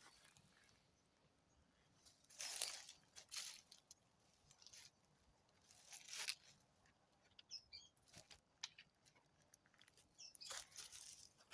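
Faint, scattered crunching and rustling noises, each lasting about half a second and coming a few seconds apart, with a short run of high chirps about two-thirds of the way through.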